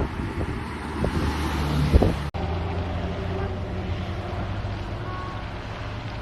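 Wind buffeting the microphone over a steady low rumble, with an abrupt cut about two seconds in.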